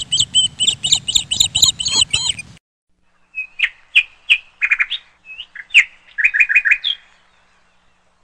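Small birds chirping: a quick run of high chirps over a low background rumble that cuts off abruptly about two and a half seconds in. After a short gap, a different set of separate chirps and short trills follows and fades out about seven seconds in.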